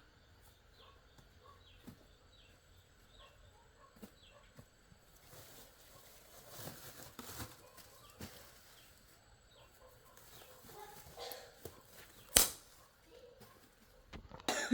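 Faint high bird chirps repeating irregularly, about two a second, with a single sharp knock about twelve seconds in.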